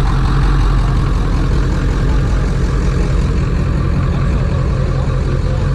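Truck engine and road noise while driving: a steady, even low rumble with no revving.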